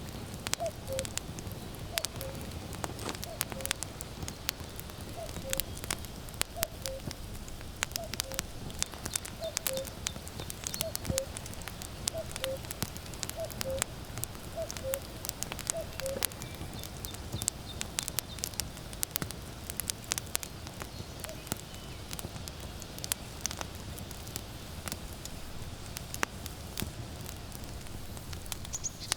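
Firewood crackling and popping in a steady fire, while a common cuckoo repeats its two-note falling "cuck-oo" call about a dozen times over the first sixteen seconds, with one last call a few seconds later.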